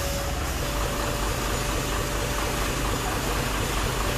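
Steady vehicle engine and road noise, with a faint steady whine held at one pitch.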